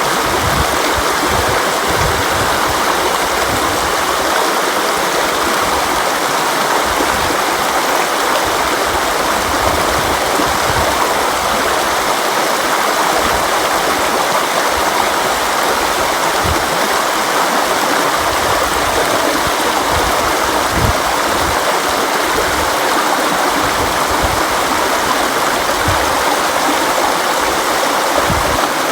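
River water flowing and rushing in a steady, unbroken wash, with small low splashes and gurgles coming through now and then.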